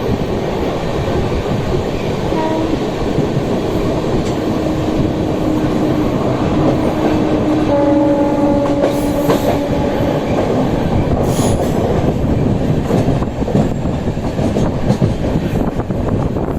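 A train running on the rails with a loud, steady rumble. A faint held tone rides over it from about three to ten seconds in.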